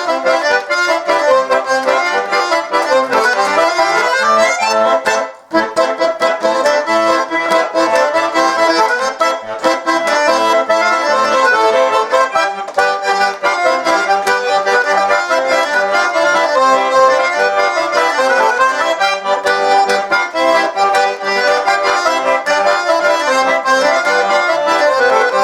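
Russian garmon (button accordion) playing a lively tune with melody and chords. The music breaks off briefly about five seconds in, then carries on.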